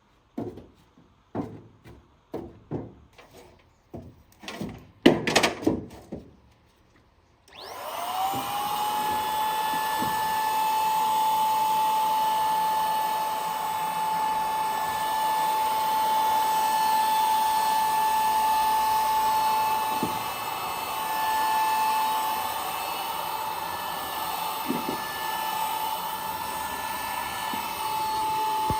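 About a dozen sharp knocks of handling and tapping. Then, after about seven seconds, a high-speed electric tool switches on, spins up with a quick rising whine and runs steadily with a high whine over a hiss.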